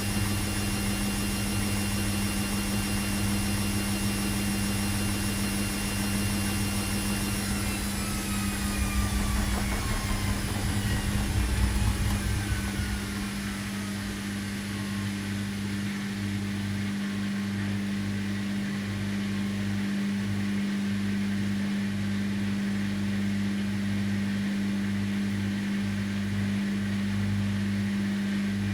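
Washing machine running with a steady low hum. About eight seconds in, its high whine starts falling in pitch over several seconds as the drum slows from spinning, with a louder low rumble near twelve seconds.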